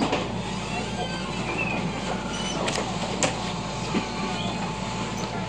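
Inside the cabin of an electric train rolling into a station: steady running rumble, with a few sharp clicks of the wheels over rail joints and points and brief faint wheel squeals.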